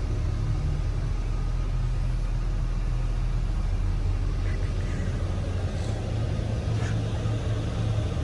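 An engine idling steadily with a low, even rumble, with a few faint clicks and taps over it about halfway through and later.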